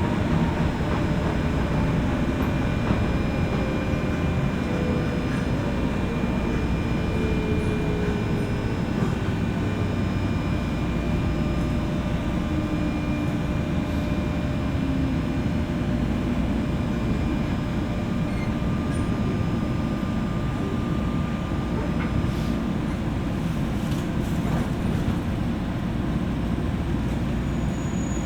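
Interior running noise of a JR West 201 series electric train, heard in the motor car above its armature chopper: a steady rumble of wheels and running gear. A faint tone slides slowly downward in pitch during the first half.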